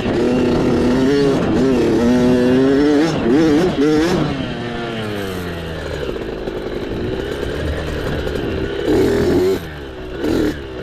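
Small dirt bike engine revving up and down under changing throttle, its pitch rising and falling, with sharp drops off the throttle about four seconds in and again near the end.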